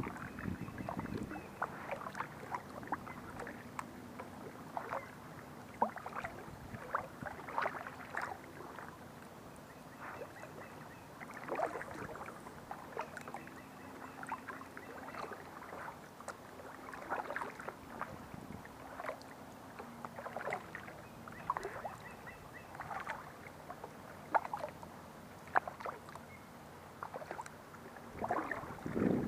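Kayak paddle dipping and pulling through the water: irregular splashes and drips, roughly one stroke every second or so, over a faint steady hum.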